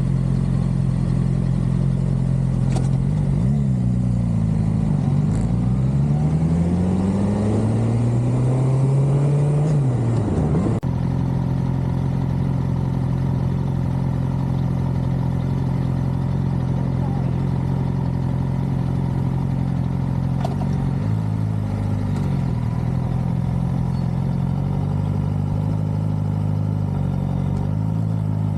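Suzuki GSX-R600 inline-four motorcycle engine running under way. The revs climb for several seconds, then drop suddenly at a shift about eleven seconds in, and the engine runs at a fairly steady speed after that.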